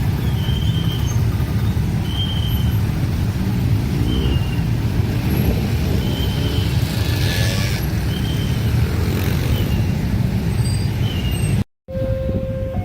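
A train running past at a railway level crossing: a heavy, steady rumble, with the crossing alarm's short tones repeating faintly above it. The sound cuts out briefly near the end, and the crossing alarm's two-note chime comes back clearly.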